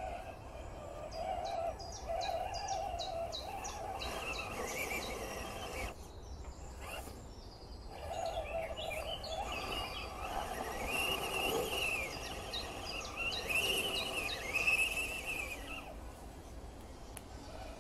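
Birds chirping outdoors in quick runs of short high notes. Two longer whines rise and fall in the second half, over a steady low hum.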